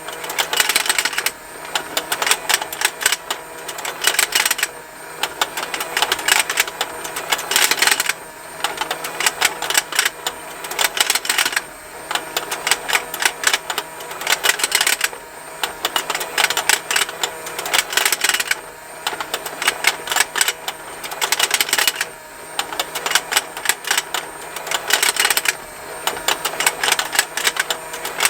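Plastic fishing-game toy running: its motor and rotating pond give a continuous fast plastic ticking, with louder bursts of clicking about every three and a half seconds.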